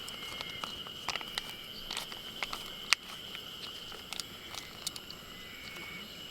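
Insects chirring steadily in one high, slightly warbling band, with scattered sharp clicks and taps over it; the loudest click comes about three seconds in.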